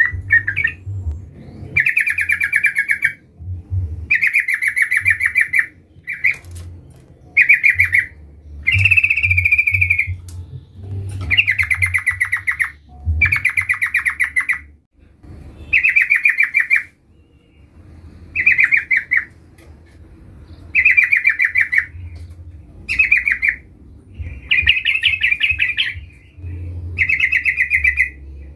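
Yellow-vented bulbul (trucukan) singing: loud, bubbly chattering phrases about a second long, repeated every second or two.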